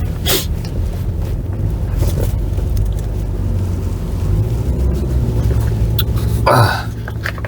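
Steady low rumble of a car heard from inside its cabin, with a brief sharp noise just after the start and a short louder noise about six and a half seconds in.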